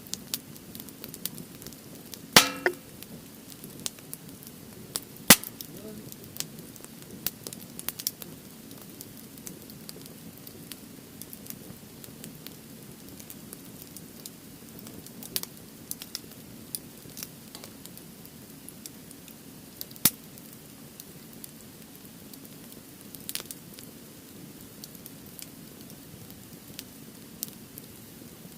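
Wood campfire in a fire grill burning with steady crackling and scattered sharp pops, including a few loud snaps about two, five and twenty seconds in.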